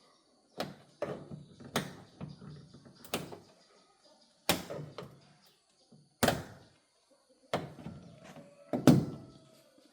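Irregular sharp knocks and clunks, about eight over ten seconds, with a loud double knock near the end: car parts and tools being handled and set down while the vehicle is taken apart.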